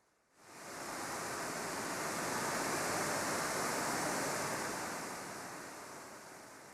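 Sea wave surging in and washing back: an even rushing noise that starts suddenly, swells over a few seconds and slowly dies away.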